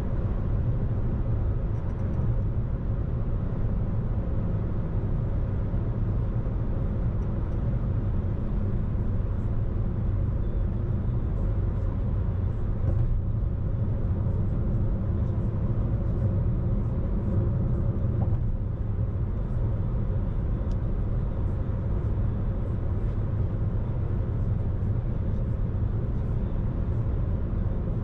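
Steady road and engine noise of a car being driven, a low even rumble with no marked changes.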